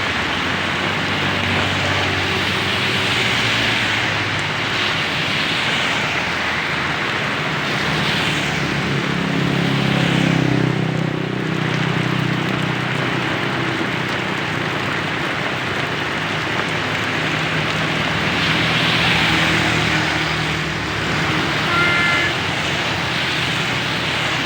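Heavy rain on a busy road with vehicles passing: a dense steady rush of rain and wet-tyre noise with engines underneath, swelling as vehicles go by, loudest about halfway through. A short high tone sounds near the end.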